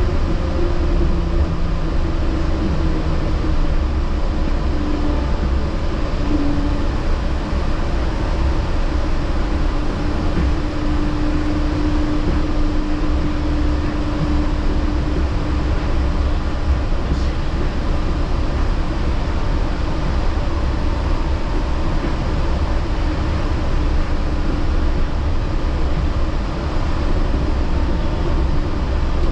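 Yurikamome Line rubber-tyred automated guideway train running along its track, heard from inside the car: a steady low rumble with a motor tone that slowly drifts in pitch.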